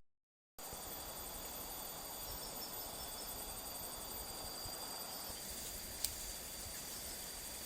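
Steady chorus of crickets and other insects: thin, high, unbroken trilling over an even background rush. A single sharp click about six seconds in.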